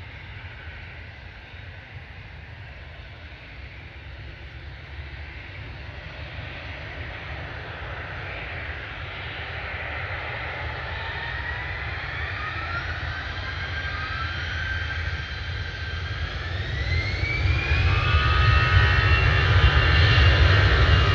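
Jet airliner's engines growing steadily louder as it nears, with a whine that climbs in pitch from about halfway through and a deep rumble building towards the end.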